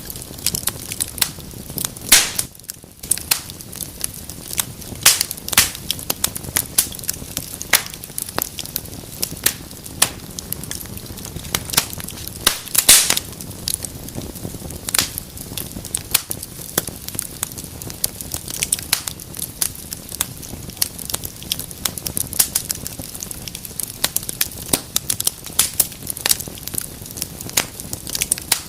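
Wood fire crackling in a fireplace: a steady low hiss of burning with irregular sharp pops and snaps throughout, a few of them louder.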